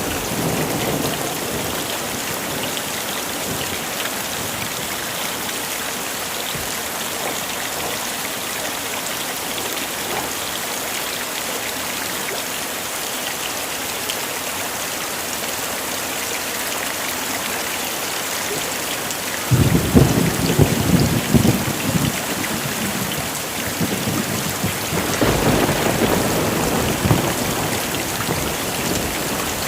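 Heavy rain falling steadily. About two-thirds of the way in a sudden crack of thunder breaks and rumbles for a couple of seconds, and a second rumble of thunder rolls in near the end.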